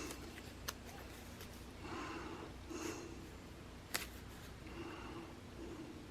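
Quiet handling of paper stickers and a planner: soft rustles with a couple of light taps.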